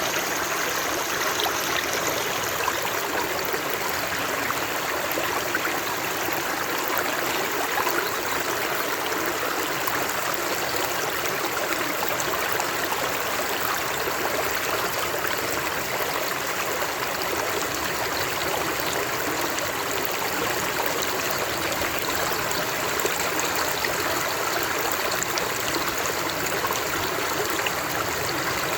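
Stream of water flowing and splashing steadily, a constant rushing with fine trickling detail.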